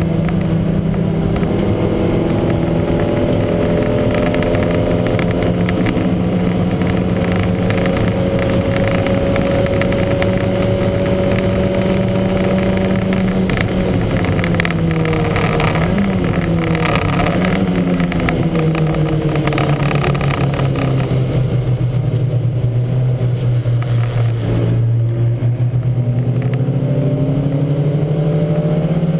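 Lancia Montecarlo's twin-cam four-cylinder engine under race load: it holds steady high revs, then from about halfway the pitch falls over several seconds as the car slows, there is a brief break in the sound as a gear is changed near the end, and the revs climb again. The engine has a huge misfire.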